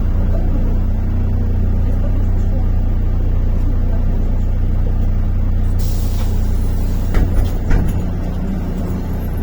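A MAZ-103 city bus's diesel engine running steadily, heard from inside the bus. About six seconds in, the bus's pneumatic system lets out a sharp hiss of compressed air that fades over a few seconds, typical of the bus halting at a stop, followed by a couple of knocks.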